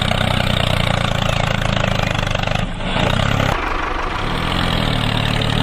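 Small engine running steadily with a fast, even firing pulse. Its low tone briefly drops out and shifts between roughly halfway and two-thirds of the way through, then carries on.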